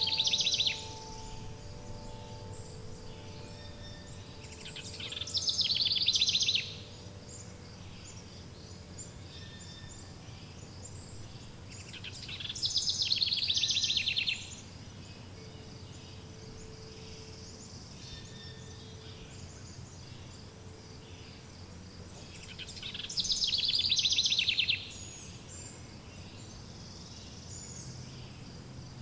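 A songbird repeating a loud, rapid, trilling song phrase four times, each about two seconds long, over a steady background of outdoor ambience. Soft wind-chime tones ring and fade in the first few seconds, with a fainter chime again around the middle.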